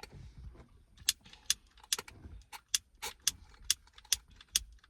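Butane torch lighter's igniter clicked over and over, about ten sharp clicks at roughly two a second starting about a second in.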